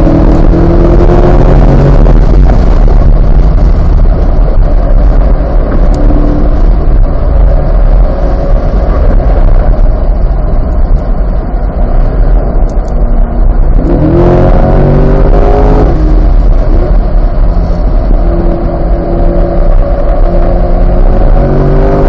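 C8 Corvette's 6.2-litre V8 driven hard on a race track, loud throughout: the engine note rises under acceleration about fourteen seconds in and again near the end, with a rougher, less steady stretch and heavy wind and road noise in between.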